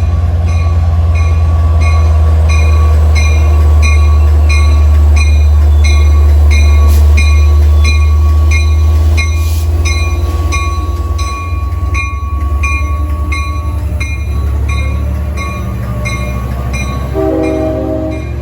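LIRR DM30AC diesel locomotive running loudly as its train pulls into the station, with a deep engine drone that eases off about two-thirds of the way through. A bell rings steadily about every half-second over it, and a brief horn-like chord sounds near the end.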